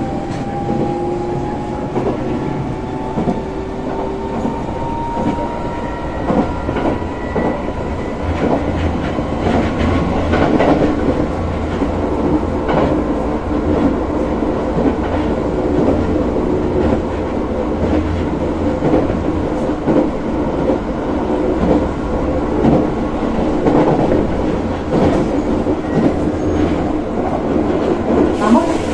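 Tokyo Metro 13000 series train heard from inside the car while running: a steady low rumble, a whine rising slowly in pitch over the first several seconds, and repeated clicks of the wheels over the rail joints.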